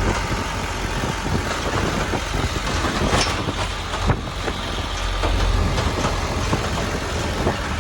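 Truck on the move, heard from its open back: engine and road noise with wind buffeting the microphone and frequent knocks and rattles.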